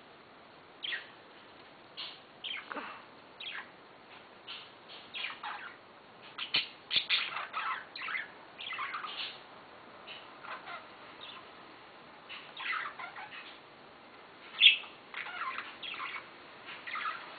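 Budgerigars chirping and chattering in short, irregular calls, with one louder call near the end.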